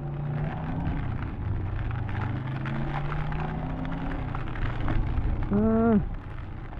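Suzuki GSX400S Katana's inline-four engine running steadily on the move, under heavy wind and rain noise. A brief voiced sound, rising then falling in pitch, comes about five and a half seconds in.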